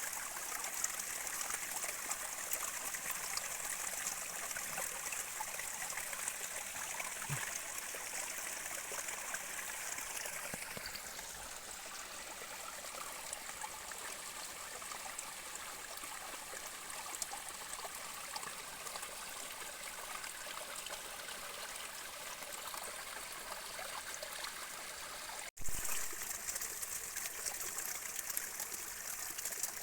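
A small stream running and trickling steadily. About 25 seconds in, the sound breaks off for an instant and comes back with a short low bump.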